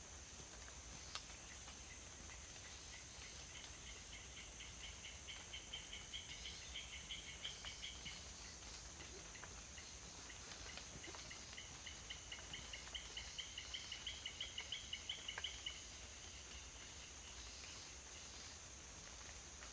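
Forest wildlife after rain: a steady high-pitched insect drone, with two runs of quick, evenly repeated chirping calls, each building in loudness and then stopping abruptly. A single sharp click sounds about a second in.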